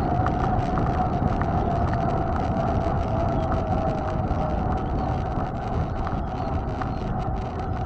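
Mountain bike being ridden: wind buffeting the microphone over tyre rumble, with a steady high buzz running through.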